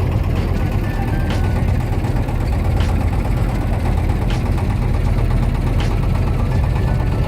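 An engine running steadily with a deep hum, and a sharp tick about every second and a half.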